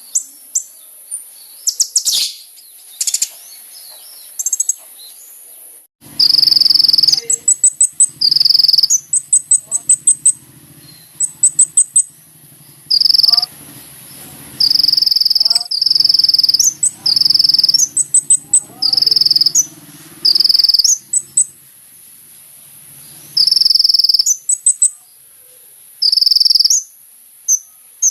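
Kolibri ninja sunbird song: a few high chirps and short trills, then from about six seconds in loud buzzy trilled phrases, each about a second long, repeated over and over with rapid high ticking notes between them.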